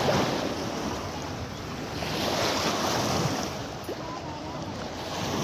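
Small lake waves washing onto the shore, swelling and falling in surges a few seconds apart.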